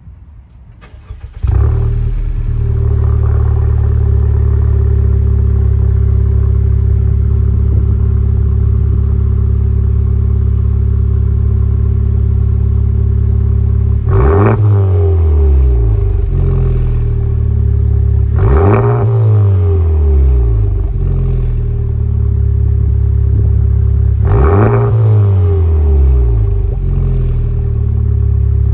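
2020 Honda Civic Type R's turbocharged 2.0-litre four-cylinder, through an HKS Legamax aftermarket exhaust, starting about a second and a half in and idling steadily, with three quick revs, each rising and falling back to idle, in the second half.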